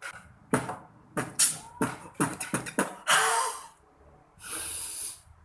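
A child beatboxing: a quick string of mouth-made kick and snare hits, followed by two long hissing, cymbal-like sounds near the end.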